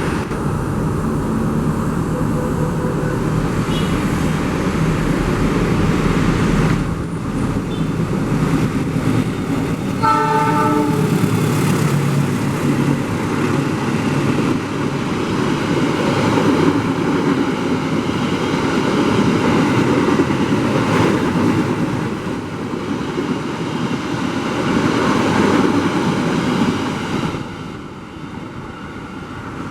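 Fajar Utama locomotive-hauled passenger train passing close by, its wheels and carriages making a steady, loud rumble and rush, with one short horn blast about ten seconds in. The rush eases off near the end as the train clears.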